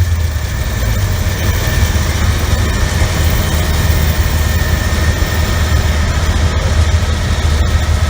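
A heavy engine running steadily with a deep, low drone. Its pitch steps down slightly right at the start.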